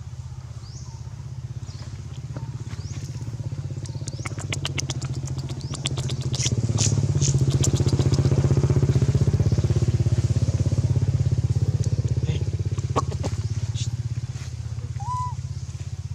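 A motorcycle engine running steadily, growing louder about six seconds in and easing off again after about twelve seconds, as if passing close by. Scattered clicks come through in the middle.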